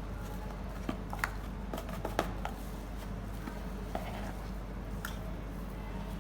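A few light clicks and taps of kitchen utensils and containers, most of them about one to two and a half seconds in, with a couple more later, over a steady low background hum.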